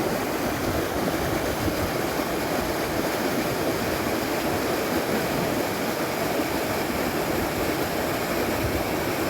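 Steady rushing of flowing or falling water, an even continuous noise without breaks.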